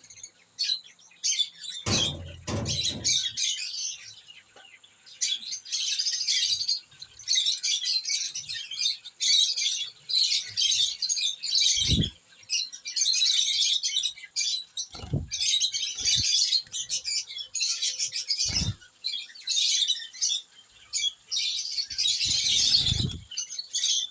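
Small birds chirping busily and continuously, several at once, with a few dull low thumps here and there, loudest about two seconds in and near the end.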